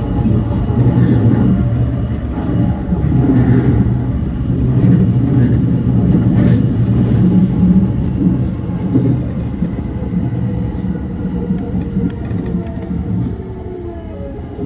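E235 series electric train running on the track, heard from inside the train: a steady low rumble of wheels and running gear that eases off over the last few seconds.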